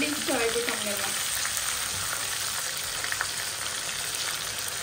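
Marinated chicken tikka pieces sizzling steadily as they fry in hot oil in a kadhai, with a steel slotted spoon turning them and a few light clinks.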